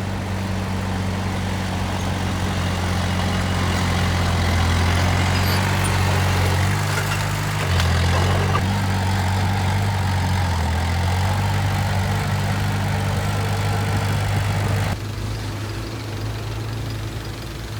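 Heavy diesel engine of a dump truck or bulldozer running steadily, its pitch shifting about eight seconds in. About fifteen seconds in the sound abruptly gets quieter and loses its hiss.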